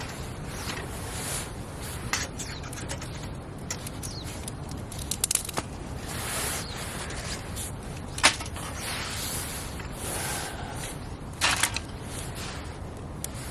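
Wood campfire crackling, with a few sharp pops scattered through it and soft hissing swells between.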